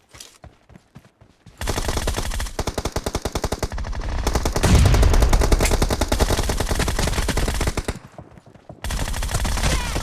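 Rapid automatic gunfire in a first-person shooter video game, starting about a second and a half in, heaviest in the middle, breaking off briefly near the end and then firing again.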